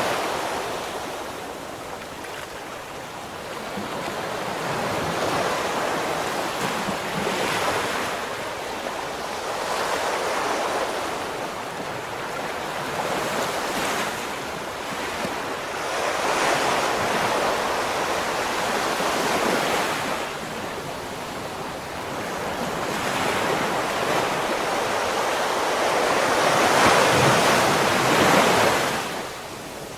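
Ocean waves breaking and washing up the shore, each surge rising and falling in turn, the loudest swell near the end, with some wind on the microphone.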